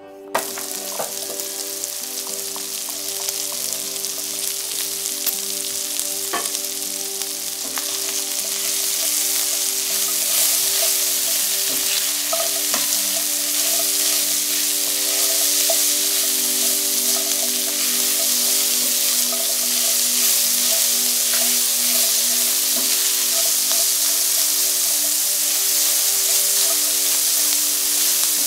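Diced bacon, shallots and celery sizzling in olive oil in a stainless steel frying pan as a spatula stirs them, with an occasional light scrape of the spatula on the pan. The frying hiss builds over the first several seconds, then holds steady.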